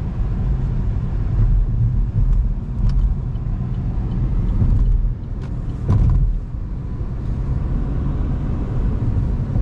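Steady low road and engine rumble heard inside a moving car's cabin, with a brief louder thump about six seconds in.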